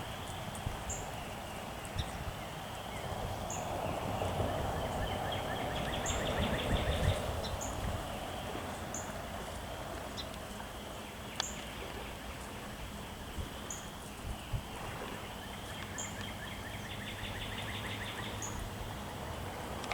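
Small birds calling, a short high chirp repeated about once a second with a couple of rapid trills, over steady outdoor background noise that swells for a few seconds near the start.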